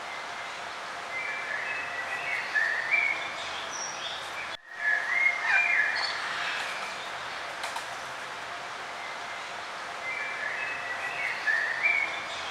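Songbirds singing in short warbling phrases, three bursts of song over a steady background hiss, with a brief dropout in the sound about a third of the way through.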